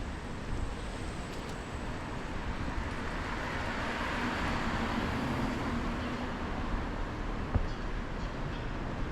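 Road traffic noise, with one vehicle passing that swells and fades over a few seconds in the middle.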